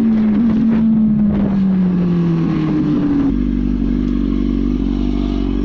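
Motorcycle engine running, its pitch sliding slowly down as the bike eases off, then settling at a new pitch after about two and a half seconds. It cuts off abruptly near the end.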